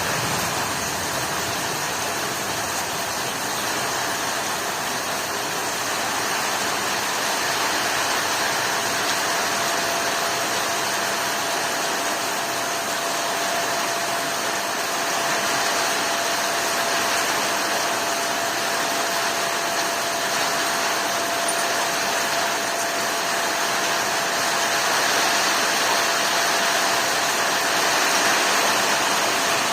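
Heavy storm rain falling steadily, a dense even hiss with no let-up.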